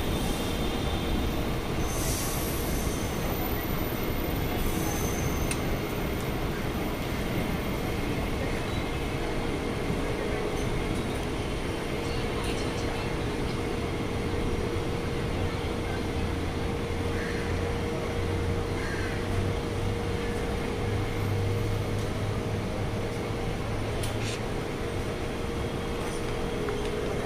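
Mumbai suburban electric local train running into a station and slowing, heard from its open doorway: a steady rumble and hum, with two short high wheel squeals about two and five seconds in.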